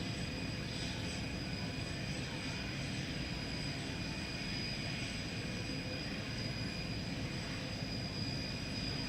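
Jet airliner's engines running at idle as the plane taxis in to the gate: a steady low rumble with a constant high whine over it.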